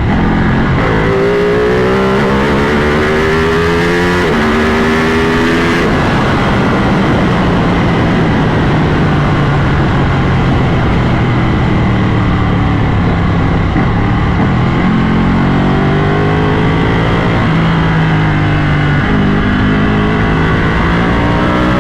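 Ducati motorcycle engine pulling away and accelerating, the revs rising and then dropping as it shifts up a gear about four seconds in. It runs at a steadier pace through the middle, then climbs through the gears again with more rising revs and upshifts near the end.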